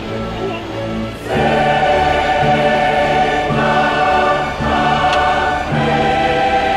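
Background music of a choir singing held chords that change every second or so, growing louder about a second in.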